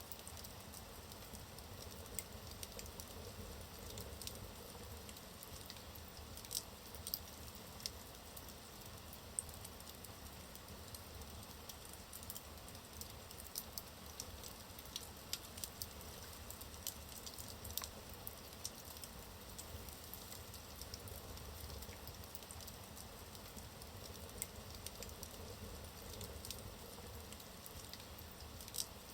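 Wood fire burning in a fireplace: a soft low rumble of flames with frequent small crackles and pops from the burning logs, a few of them sharper.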